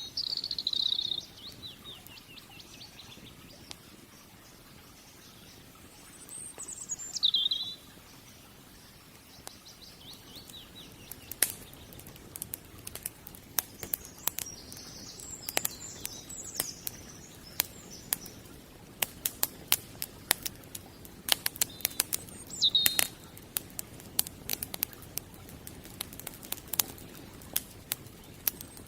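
Wood fire crackling, with sharp pops and snaps that start about a third of the way in and come thicker toward the end. Birds call over it a few times, short chirps sliding down in pitch.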